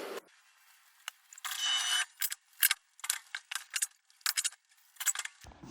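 Light clinking and rattling: an irregular run of sharp clicks, several a second, over about four seconds.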